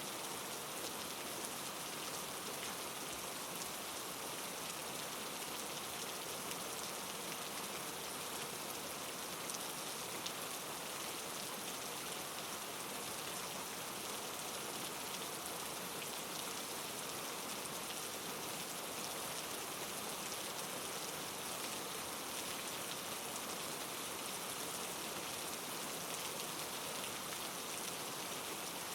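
Steady rain falling, an even hiss of rain on a surface with no let-up.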